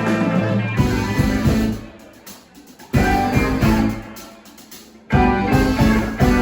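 Live rock band playing, with guitar to the fore. The band drops out about two seconds in, hits one chord together about a second later and lets it ring down, then comes back in full near the end.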